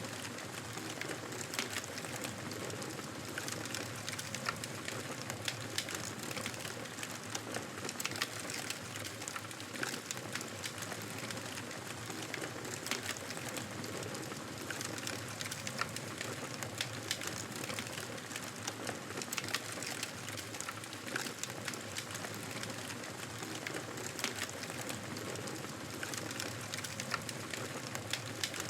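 Wood fire crackling in a fireplace: a steady hiss dotted with frequent small pops and snaps.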